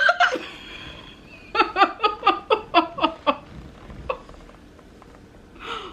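A person laughing: a quick run of about ten short 'ha' bursts, starting about a second and a half in, after a brief vocal sound at the start.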